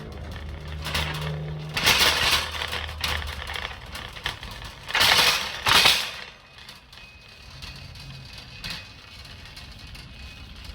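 A car's engine running with a low steady hum that stops about three and a half seconds in, with loud noisy handling sounds around two seconds in and again around five to six seconds in, then a quieter stretch.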